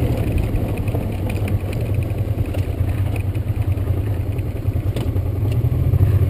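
Honda Transalp V-twin engine running steadily at low speed on a rough stony dirt track, with a few faint clicks and a light clatter over the engine.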